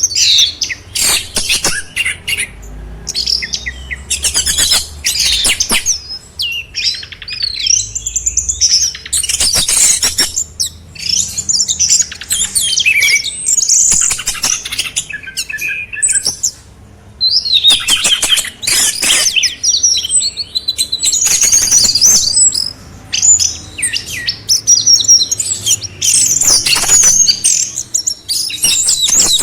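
Songbird singing a rapid, varied song of high chirps, whistles and trills, in phrases of a second or two broken by short pauses, over a faint low hum.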